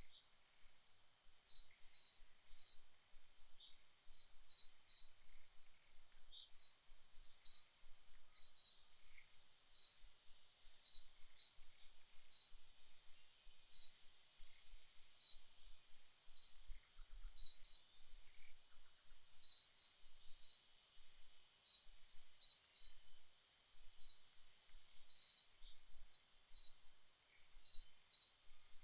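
A small bird repeating short, high chirps, often two or three in quick succession, over a faint steady high hiss.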